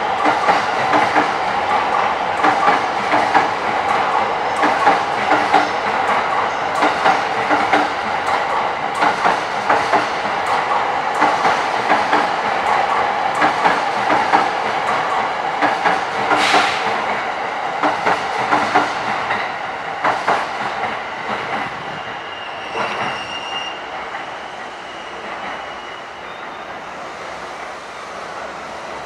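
Electric commuter train running on the tracks, its wheels clacking over rail joints in a quick, steady rhythm, then fading as it moves away over the last several seconds. A short high squeal of the wheels comes through near the end.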